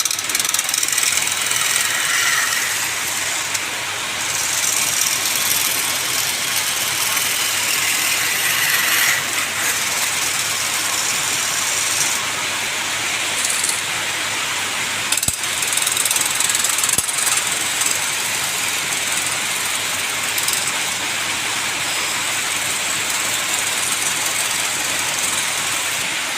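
Wood lathe running while a turning tool cuts the spinning workpiece: a steady hissing scrape, with a sharp click about fifteen seconds in.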